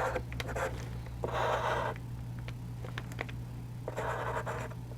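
A 4B charcoal pencil scratching on charcoal paper, drawing fine lines: two longer strokes, about a second in and near four seconds, among short ticks and taps. A low steady hum runs underneath.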